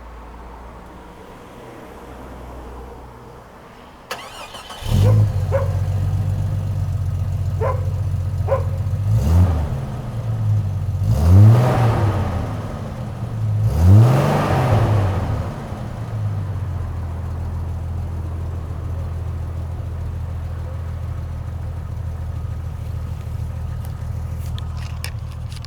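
Jeep Cherokee XJ started about five seconds in, its exhaust note settling into idle. The throttle is blipped three times, each rev rising and falling, the second and third the loudest, before the engine returns to a steady idle.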